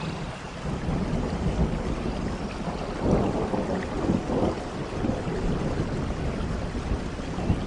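Steady rain with low rolling thunder rumbling underneath, swelling about three seconds in.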